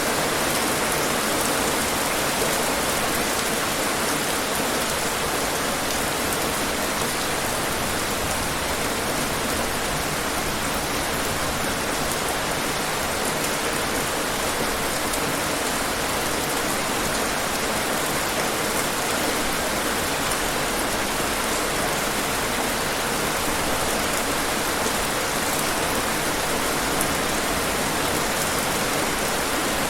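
Steady rain falling on hard surfaces, an even hiss with scattered drop patter throughout.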